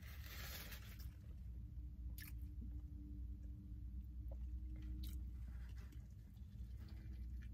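A person chewing a mouthful of a steak, egg and cheese breakfast sandwich on soft bread, with a few faint mouth clicks, over a steady low rumble.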